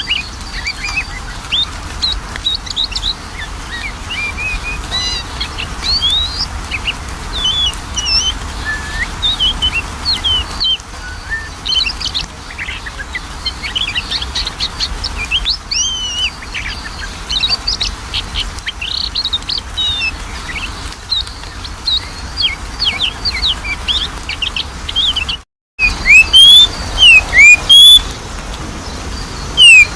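Oriental magpie-robin (kacer) singing: a busy, varied stream of quick chirps and whistles. After a brief break about 25 seconds in, the song turns to louder, repeated upward-sweeping whistled notes.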